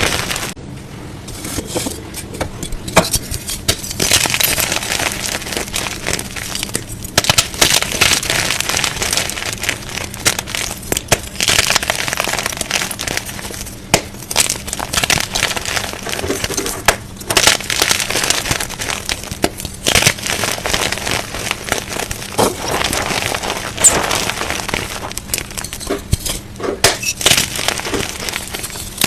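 Blocks of gym chalk being crushed close to the microphone, with dense crunching and crackling broken by sharp snaps and a few brief pauses.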